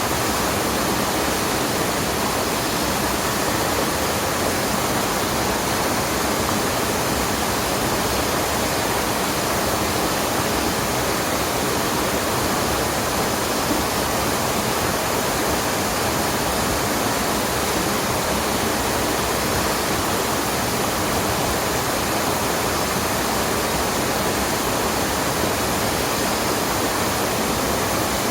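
Steady rushing of water falling and flowing in a mountain stream, an even, unbroken roar.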